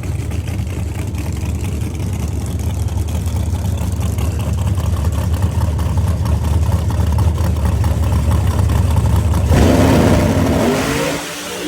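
A drag car's V8 engine rumbling loud and steady. About nine and a half seconds in it gets suddenly louder and harsher, then the pitch falls away as the revs drop or the car moves off.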